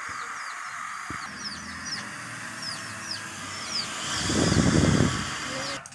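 Small birds chirping in the background: a string of short, quick, down-slurred high chirps. A burst of low rumbling noise rises over them about four seconds in and fades a second later.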